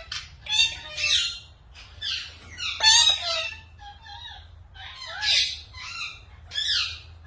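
Parrots squawking: a string of short, harsh calls, one after another at uneven gaps.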